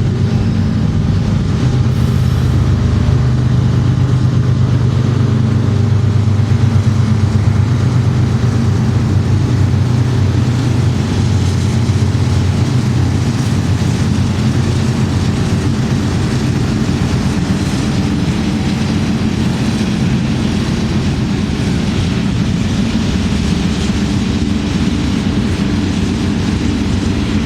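Loaded ethanol freight train rolling past close by: a steady low drone from the diesel locomotives over the continuous rumble and rush of wheels on the rails.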